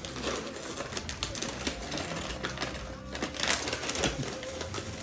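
Gift wrapping paper rustling and crackling as a present is unwrapped, in irregular crinkles with a few louder rustles past the middle.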